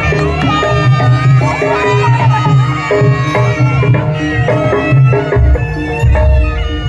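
Live Javanese jaranan (turonggo) music: hand drums beating a steady rhythm under a reedy wind melody and sustained metallophone tones. A deeper drum or gong sound comes in strongly about five seconds in.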